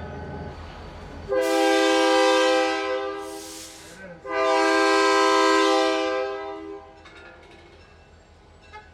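Locomotive air horn sounding two long blasts of a chord of several steady tones, each nearly three seconds long. Two long blasts are the railroad signal that the train is about to move off.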